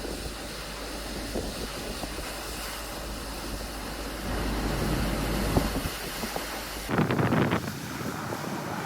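Wind buffeting the microphone of an action camera at the beach over the wash of the surf. About seven seconds in, the sound changes suddenly to a run of short, gusty rushes of wind and water.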